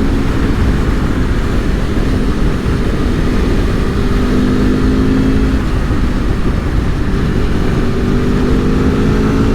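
Aprilia Tuono V4's V4 engine running steadily at cruising revs, about 5,000 rpm in fourth gear, under a heavy low rumble of wind on the microphone. The engine note dips briefly about six seconds in, then settles back.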